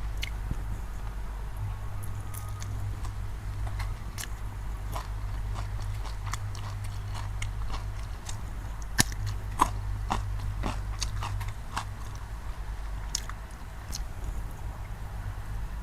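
A person biting and chewing food close to the microphone: a run of wet clicks and crunches, with two sharper ones about nine seconds in, over a steady low hum.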